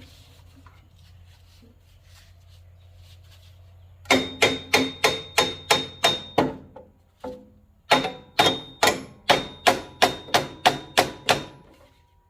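A hammer tapping a steel tractor range selector lever onto its shaft, rapid metal-on-metal strikes with a ringing tone, about four a second. Two runs of strikes: the first starts about four seconds in, and the second follows after a short pause.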